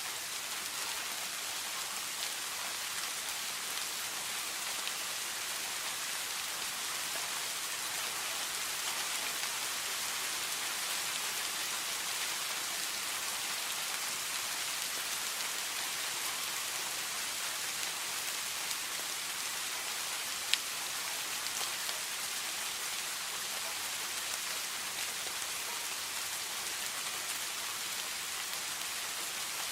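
Steady rain falling: an even hiss of drops with faint scattered ticks, and one sharper single tick about two-thirds of the way through.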